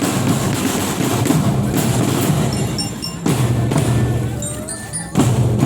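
Marching drum band playing: snare and bass drums beating steadily, with short high bell notes ringing over them.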